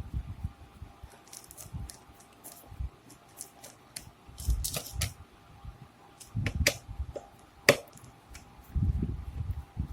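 Screws being undone from the back panel of a Creative SBS370 subwoofer: irregular clicks, scrapes and low knocks from the screwdriver and the plastic cabinet being handled, with one sharp click about three-quarters of the way through.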